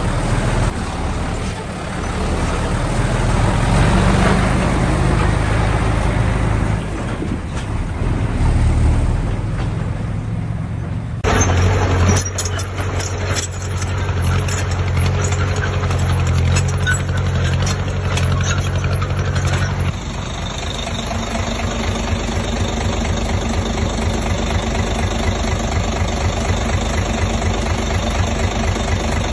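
Heavy diesel engine of construction machinery running throughout. The sound changes abruptly about eleven seconds in and again near twenty seconds, after which it settles into a steady, evenly pulsing idle.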